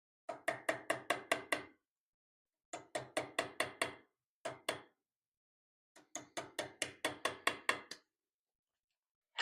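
Small hammer tapping a chisel in quick runs of light strikes, about six a second, as it cuts dovetail undercuts in a wrought-iron cross-guard for copper inlay. There are four runs with short pauses between them, and each strike rings briefly.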